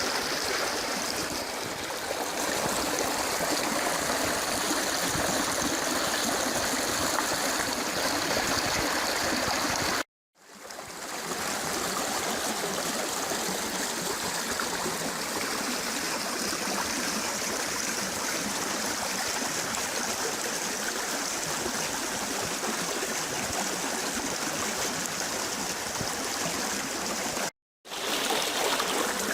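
Water of a wadi stream swollen by heavy rain, rushing steadily. The sound drops out abruptly for a moment twice, about ten seconds in and near the end.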